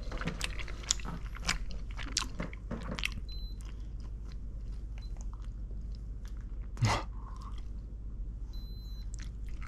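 Close-up crunching and chewing of fried snacks, with crisp bites and crackles. A digital thermometer beeps briefly about three seconds in and again, longer, near the end.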